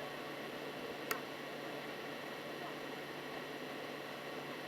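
Steady background hiss of open-air ambience at a soccer game, with one sharp click about a second in.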